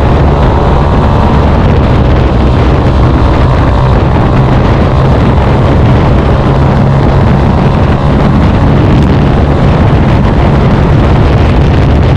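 Yamaha Fazer 153cc's air-cooled single-cylinder four-stroke engine running loud and steady through an aftermarket Daytona Dragex exhaust with the dB killer removed.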